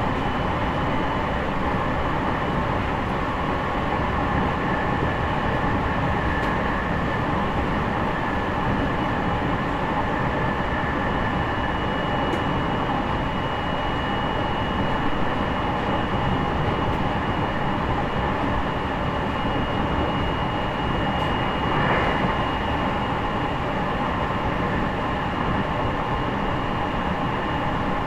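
Running noise heard inside a JR East E501-series electric train's motor car (Toshiba IGBT inverter) at speed: a steady rumble of wheels on rail with a thin steady whine above it, and a brief swell about three quarters of the way through.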